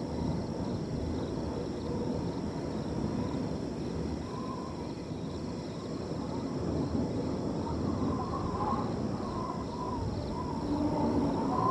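Wind blowing through a field under a steady high trill of crickets. Short animal calls come and go over it, more often in the second half.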